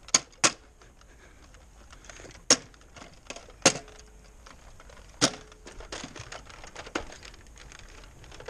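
Foam-dart toy blaster clacking: about six sharp plastic clicks and snaps at irregular intervals, the first two close together.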